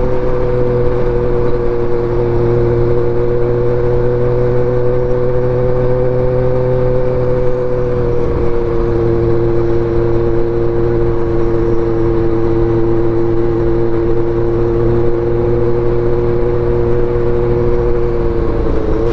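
An engine running steadily at a constant speed, a continuous drone that drops slightly in pitch about eight seconds in.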